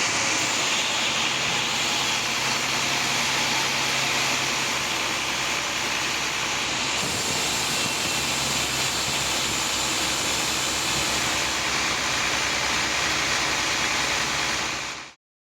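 Sawmill machinery running, a loud steady noise with a low hum under it, fading out near the end.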